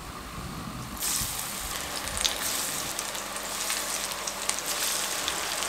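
Batter-coated potato pinwheels frying in hot oil in a pan: a steady sizzle with scattered small pops. The sizzle jumps up sharply about a second in as fresh pieces go into the oil.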